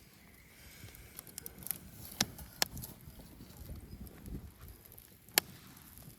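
Wood bonfire crackling, with scattered small ticks and a few sharp pops, the loudest about five seconds in.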